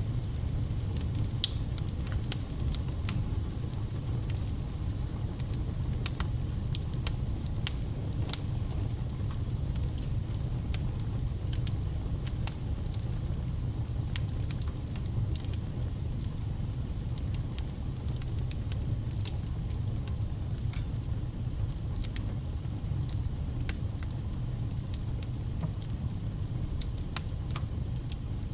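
Wood fire burning: a steady low rumble of the flames with frequent sharp crackles and pops of the burning logs.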